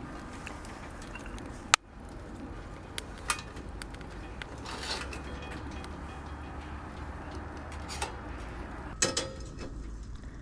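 Scattered light clicks and knocks, one sharp click about two seconds in, over a low steady background.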